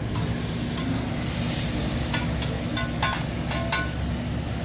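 Food sizzling on a hibachi flat-top griddle, with a few sharp metallic clinks of the chef's spatula about two to four seconds in.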